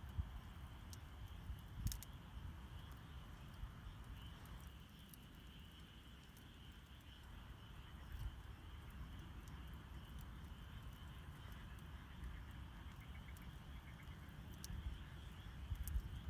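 Wood campfire crackling, with scattered sharp pops and a low rumble. Behind it runs a steady high-pitched chorus of night creatures.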